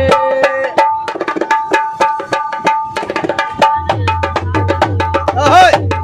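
Dholak hand drumming in a fast, busy rhythm during an instrumental break between sung lines of the song, with held melody notes over it. A deep bass layer comes in about two-thirds of the way through.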